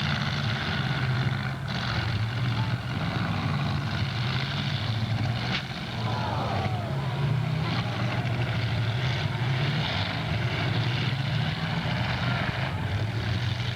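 Engines of several demolition derby cars running and revving up and down, with a few sharp knocks of the cars hitting.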